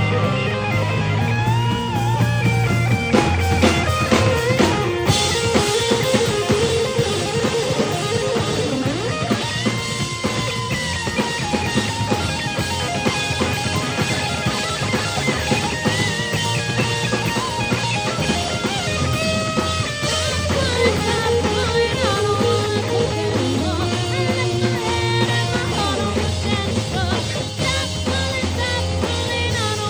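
Live rock band playing an instrumental passage: an electric guitar leads with bending, gliding notes over drums and a steady bass line.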